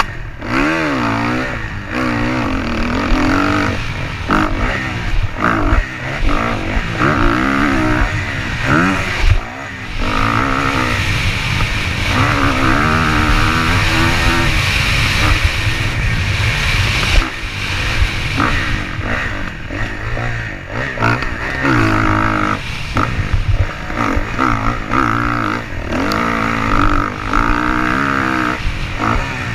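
Motocross bike engines revving, the pitch rising and falling over and over as the throttle opens and closes.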